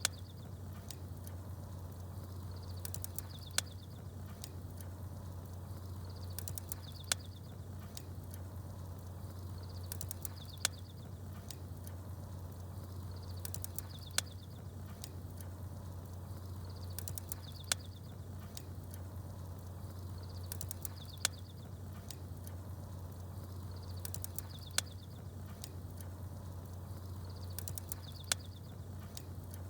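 Campfire and bird ambience: a steady low hum, with a sharp pop and a short high chirp that come back very evenly about every three and a half seconds.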